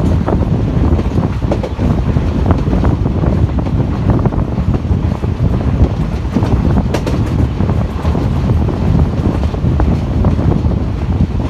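Passenger express train running at speed, heard from an open coach door: a steady rumble of wheels on the rails with wind buffeting the microphone, and a few faint clicks from the track.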